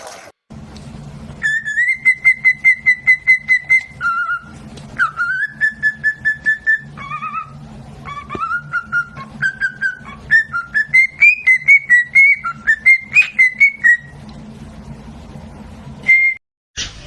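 A pet bird whistling a tune: a run of clear whistled notes, some held and some gliding, each with a fast warbling flutter. A steady low hum runs underneath, and a single short whistle comes near the end.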